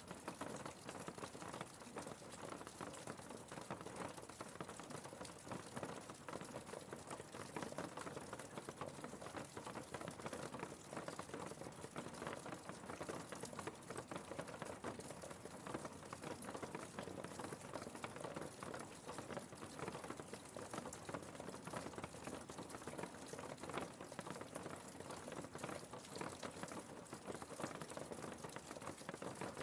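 Faint, steady rain patter: a dense spread of small drops ticking on a surface, with no tones or music.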